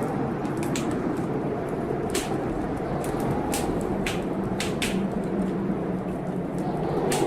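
Blizzard wind blowing in steady, slowly swelling gusts, with a wood fire crackling and giving off irregular sharp pops.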